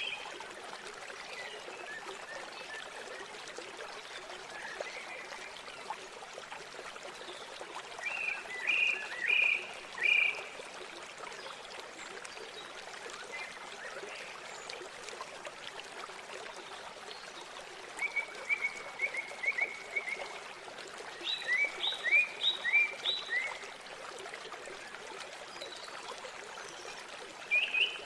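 River water flowing steadily, with birds calling over it in a few short runs of quick, high chirps and one fast trill.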